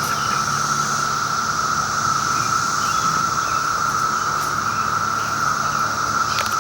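Dense chorus of Brood X periodical cicadas: a loud, steady, unbroken high-pitched drone.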